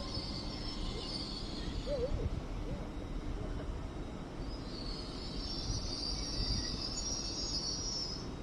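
A train at a station platform: steady low rumble with a high-pitched hiss that fades about a second and a half in and comes back around five seconds in.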